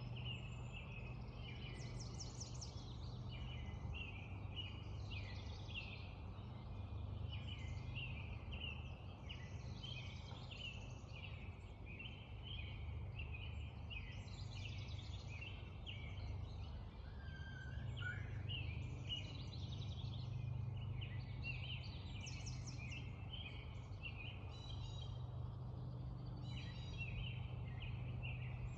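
Dawn chorus of many songbirds calling and singing over one another, with a steady low rumble underneath.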